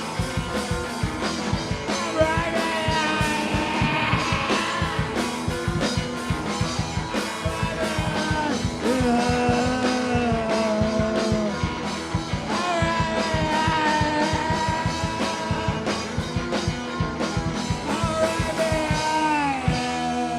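Live rock band playing a fast, steady beat under a held melodic line that bends in pitch. The beat stops near the end, leaving sustained notes.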